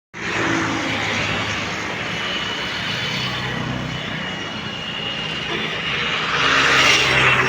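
A large engine running steadily, growing louder near the end.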